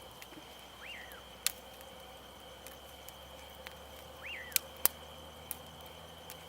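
A night bird whistling: a short call that rises and then falls, given twice about three and a half seconds apart. Sharp pops from a campfire are the loudest sounds, over a steady high faint whine.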